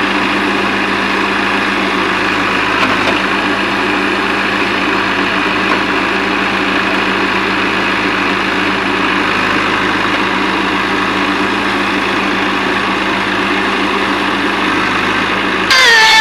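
Heavy diesel machinery engine running steadily at an even speed, with no revving. Music starts suddenly near the end.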